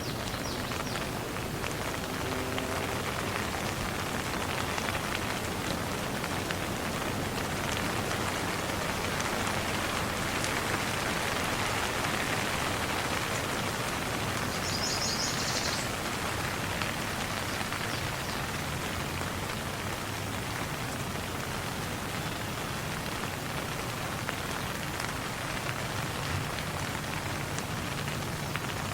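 Steady rain falling, with scattered individual drops ticking. A brief high chirping comes in about halfway through.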